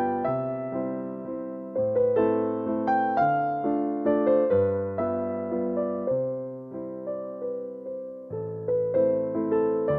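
Soft, slow piano music: a gentle melody of single notes over sustained low bass notes, each note struck and fading away.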